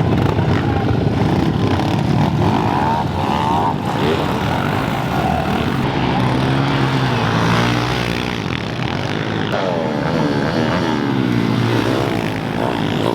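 Small four-stroke pit bike engines revving hard, their pitch rising and falling over and over as the riders work the throttle through a dirt track.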